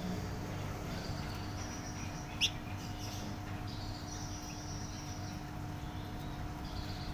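Flamboyan songbird singing in runs of high, rapid chirps, with one short, louder call about two and a half seconds in, over a steady low hum.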